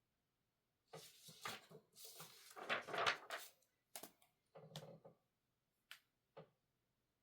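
Objects being handled on a desk: a couple of seconds of rustling and clatter, loudest about two seconds in, followed by a few light, separate knocks or clicks.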